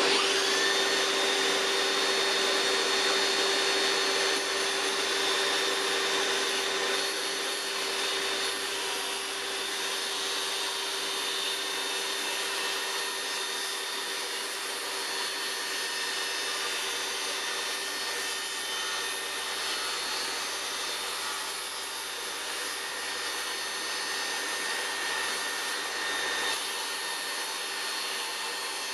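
Electric power-tool motor running steadily: a constant whine over a rushing noise, easing slightly in level after the first few seconds.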